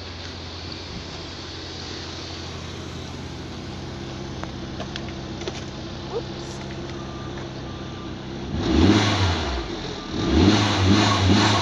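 Proton Suprima S 1.6-litre turbocharged petrol engine idling steadily, then revved twice near the end, the pitch rising and falling with each blip. The engine runs as a good one.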